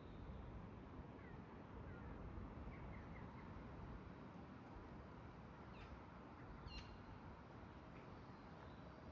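Faint ambience of a steady low rumble with a few brief, distant bird chirps; the clearest are a couple of quick high calls about six to seven seconds in.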